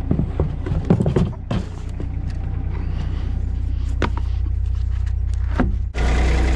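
Vehicle engine idling steadily, with a few knocks and clunks over it. Shortly before the end the sound cuts abruptly to a louder engine idling.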